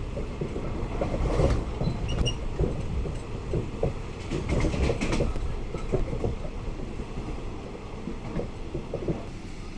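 Passenger train running along the track: a steady low rumble with irregular clacks and knocks of the wheels over the rails, swelling louder a couple of times.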